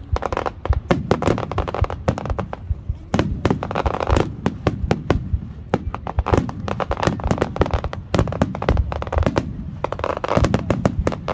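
Aerial firework shells bursting in quick succession, several sharp bangs a second with crackling between them, during a dense barrage.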